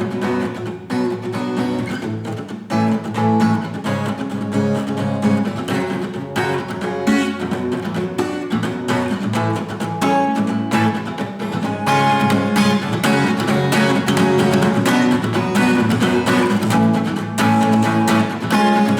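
Acoustic guitar strummed in a steady rhythmic pattern, the chords partly muted by the fretting hand and opened up to ring, getting fuller and louder from about twelve seconds in.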